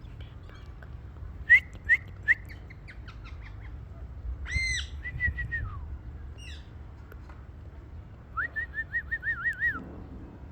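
Indian ringneck parakeet whistling and calling: three sharp, loud chirps, a longer whistled note about halfway through, then a quick run of about eight warbling notes near the end.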